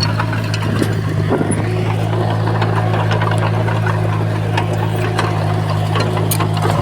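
Bulldozer's diesel engine running steadily, with frequent sharp metallic clicks and clanks over it.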